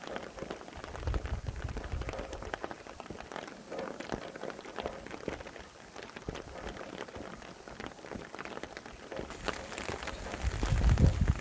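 Steady rain with many separate drops ticking. A low rumble of wind gusts swells about a second in and again, louder, near the end.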